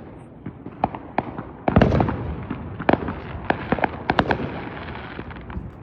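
Consumer fireworks going off: a string of sharp cracks and pops at irregular intervals over a hiss, the loudest crack about two seconds in and a quick run of pops around the four-second mark.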